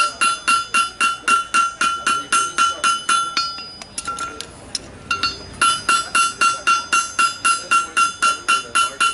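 Farrier's hammer striking a steel horseshoe on an anvil. The blows come steadily at about two and a half a second, each with a bright metallic ring. They stop for about two seconds near the middle, then resume at the same pace.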